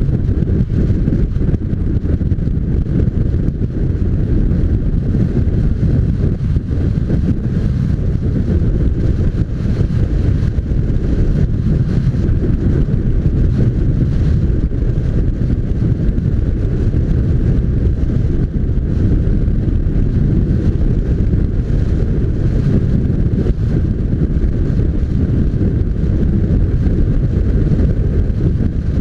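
Steady wind rumble buffeting the microphone of a moving motorcycle: a loud, unbroken low roar with no clear engine note.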